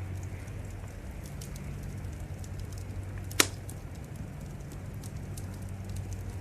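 Wood fire crackling, with scattered small crackles and one loud pop about three and a half seconds in, over a steady low hum.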